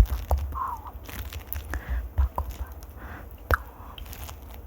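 Close-miked ASMR trigger sounds: irregular sharp clicks and crackles with soft low thumps, a loud click at the start and another about three and a half seconds in.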